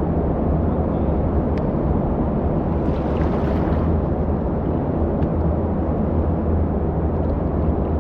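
Steady low rumble inside an echoing river tunnel, with a brief hissing swell about three seconds in and a few faint ticks.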